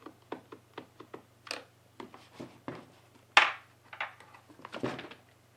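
Screwdriver and plastic chainsaw housing being handled as the last screw comes out and the cover is taken off to reach the motor brushes: a run of small clicks and ticks, with a louder knock and scrape about three and a half seconds in.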